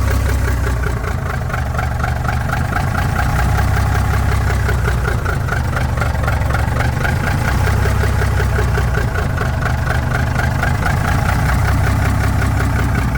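1955 Mack truck engine idling steadily with a fast, even pulse, warming up after a cold start.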